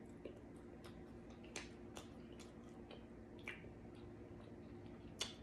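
Wet mouth sounds of someone eating barbecue rib tips: soft smacks and clicks while chewing, a few sharper ones scattered through, the loudest near the end.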